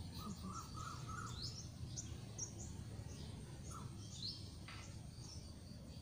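Birds chirping and calling: short high notes, some in quick runs of repeated notes, some sliding downward, with a few lower notes, over a steady low background rumble.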